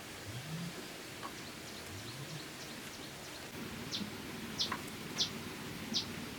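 A bird calling repeatedly with short, high chirps, one every second or less, starting about four seconds in, over a steady outdoor hiss. A few low rising calls come earlier.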